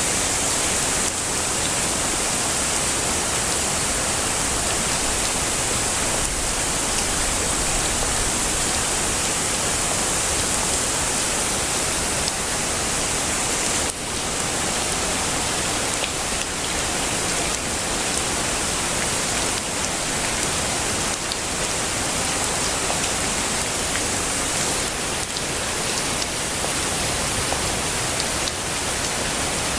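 Heavy rain falling in a steady, even hiss with scattered faint drop ticks.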